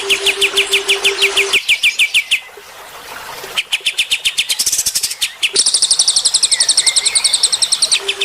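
Songbirds singing rapid trills of repeated high chips, about a dozen a second, with a short lull about two and a half seconds in and a higher, even trill in the second half. A low, steady pulsing hum runs underneath for the first second and a half and again at the very end.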